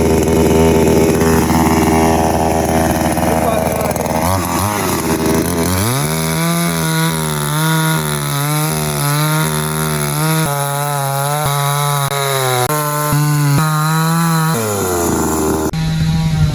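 Foresta two-stroke petrol chainsaw running just after starting with the choke closed: idling at first, then revved up to a high whine about five seconds in, its pitch wavering up and down repeatedly before dropping back near the end. A sudden cut near the end jumps back to the saw running fast.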